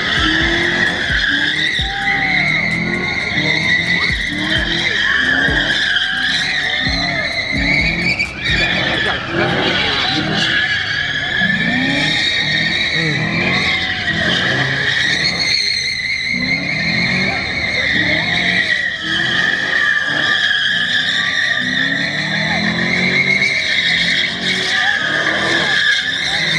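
A car's tyres squealing without a break as it spins them, while its engine revs up and down over and over, about once a second.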